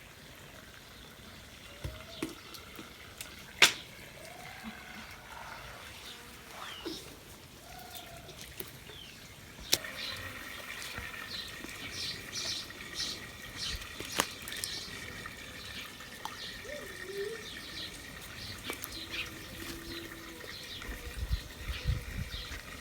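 Water running and trickling, with a few sharp knocks, the loudest about three and a half seconds in, and short bird-like chirps in the second half.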